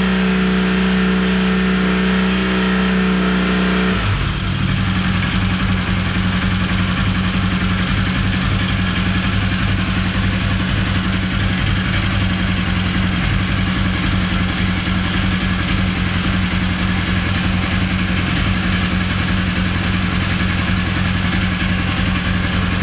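Honda CB450 parallel-twin motorcycle engine held at a steady raised speed, then dropping back about four seconds in to a lower, pulsing idle that runs on steadily. It is being run to show a strange engine noise.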